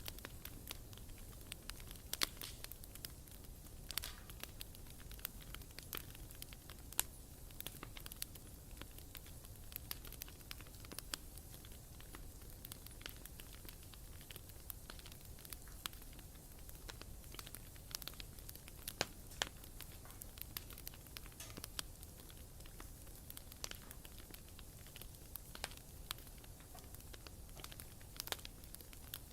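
A wood bonfire burning, with irregular crackles and sharp pops over a low rumble.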